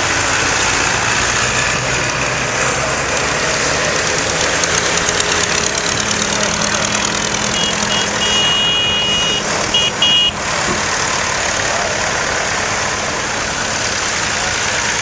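Tractor engines running and idling together. About halfway through, a high-pitched beeping sounds several times, short beeps around one longer one.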